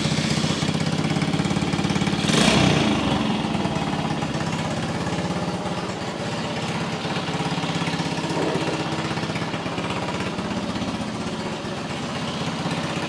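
Vintage small single-cylinder motorcycle engine running steadily after being kicked over, with a brief rev about two and a half seconds in. It is running again after its clogged carburetor pilot jet was cleaned.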